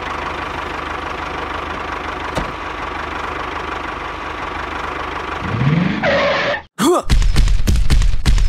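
Tractor engine sound effect running steadily. About five and a half seconds in there is a rising sweep, and near the end loud, choppy bursts take over.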